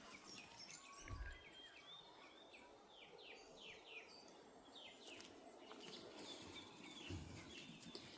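Faint birdsong: quick runs of short chirping notes, with two soft low thumps, one about a second in and one near the end.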